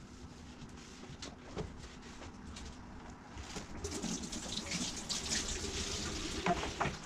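Water running from a tap, starting about three and a half seconds in, with a few light knocks and clatters around it.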